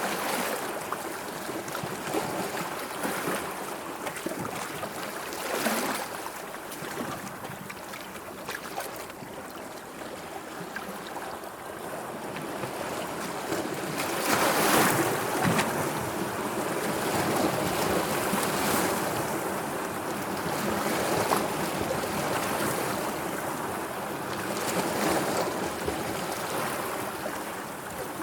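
Sea waves washing in and falling back, a steady wash that swells every few seconds and is loudest about halfway through.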